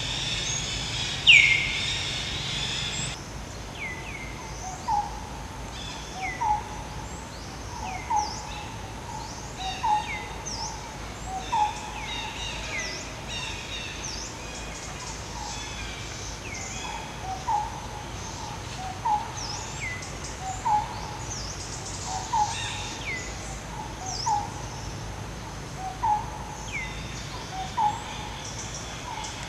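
Birds calling in the surrounding trees. A low two-note hoot repeats about every second and a half to two seconds, with one pause midway, and high falling whistled notes come in between. About a second in there is one loud falling call over a steady high hiss that stops after about three seconds.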